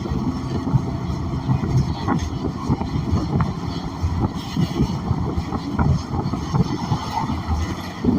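Inside a New Flyer XN40 transit bus under way: a steady low rumble from its Cummins Westport ISL G natural-gas engine and the road, with many short knocks and rattles from the body and fittings.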